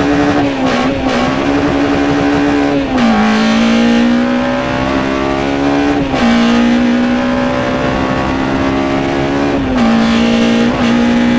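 K20 four-cylinder engine on individual throttle bodies in a Honda Integra Type R DC2, pulling hard at high revs, heard from inside the cabin. Its pitch drops sharply about three seconds in and again near the end at upshifts, then climbs slowly as the car builds speed.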